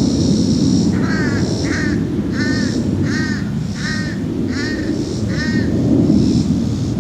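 Deep, steady rumbling of a departing jet airliner's engines, lingering well after takeoff. A bird calls about seven times in quick succession over it, starting about a second in.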